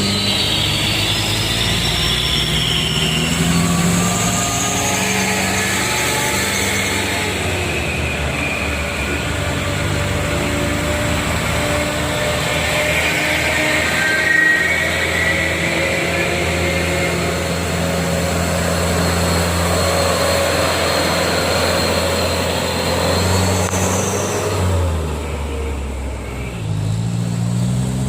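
Heavy truck diesel engines running under load, their pitch shifting as they pull and change speed. An engine revs up again near the end.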